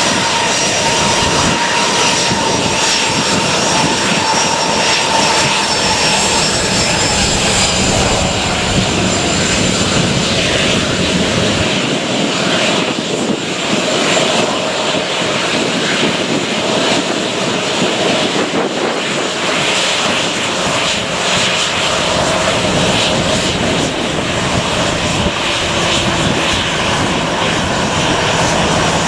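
Airliner engines at takeoff power on a departure: a loud, steady rush with a high whine running through it, the whine's pitch sliding slowly lower in the first third.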